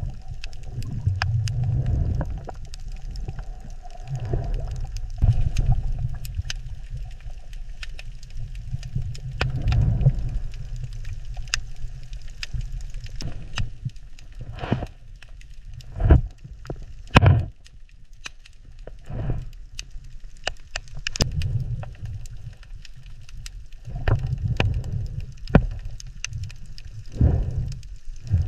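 Underwater ambience: a low rumbling wash that swells and fades every few seconds, with scattered crackling clicks and a few sharper cracks.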